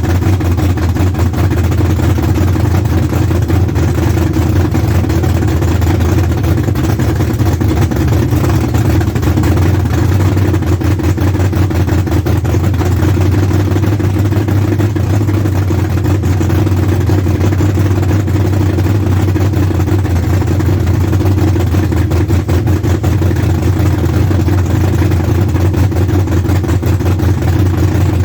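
Freshly rebuilt engine running steadily on its first startup after its machine work and rebuild, with an even, rapid firing pulse and a strong low hum.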